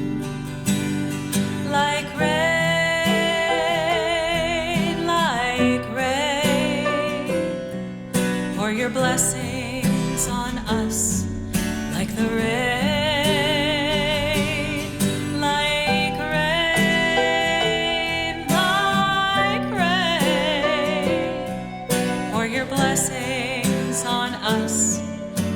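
A song: a high woman's voice sings long phrases with wide vibrato over plucked acoustic guitar accompaniment.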